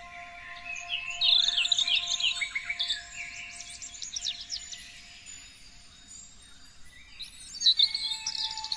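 Songbirds chirping and trilling in quick, high runs of notes. The calls are busiest about a second in and again near the end, with a quieter spell between. Faint steady tones run underneath.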